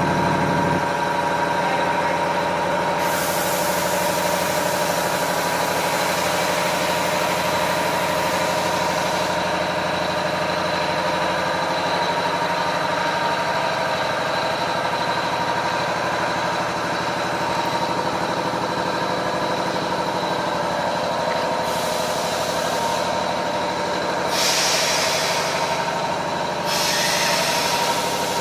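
Double-head aluminium cutting saw running with a steady motor whine, broken by several bursts of high hissing noise, one long one a few seconds in and three shorter ones near the end.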